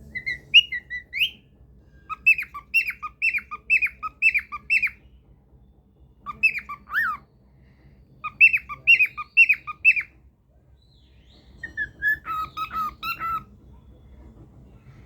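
Cockatiel singing: about five phrases of quick, repeated whistled notes, each phrase a second or two long with short pauses between.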